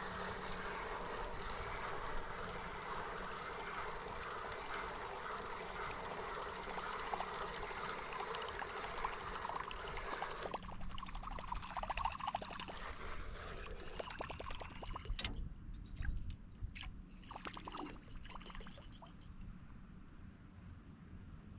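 Water trickling and splashing against the canoe, which stops suddenly about halfway through, followed by a scattering of light knocks and taps.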